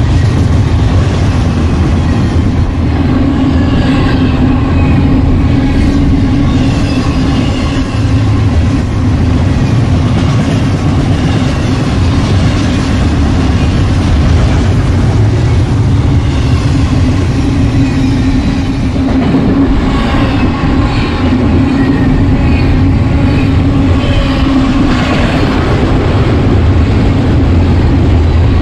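Double-stack intermodal freight train's container well cars rolling past close by at speed: a loud, steady rumble of steel wheels on the rails.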